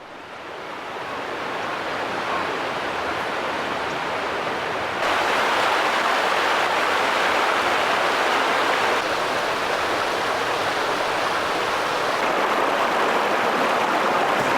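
Steady rushing noise, like flowing water, fading in at the start and stepping up in level about five seconds in.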